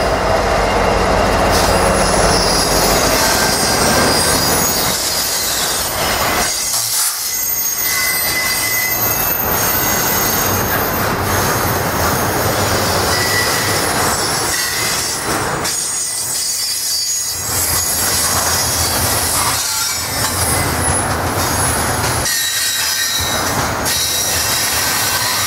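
Norfolk Southern freight train rolling past, its steel wheels squealing against the rails in thin high tones over the steady running noise of the cars.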